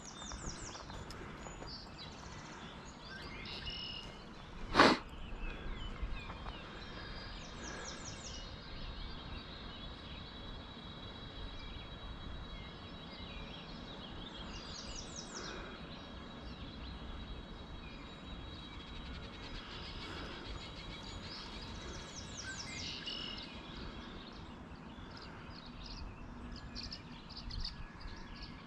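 Birds chirping outdoors in short bursts of rapid high notes, several times, over a steady low background noise. One sharp knock about five seconds in is the loudest sound.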